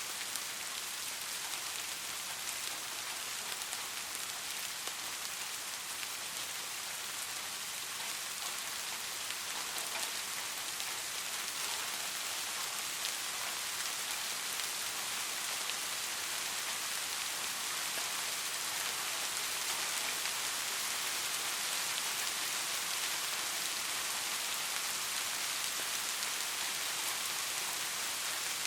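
Steady rain falling on a street: a constant hiss with scattered faint ticks of individual drops.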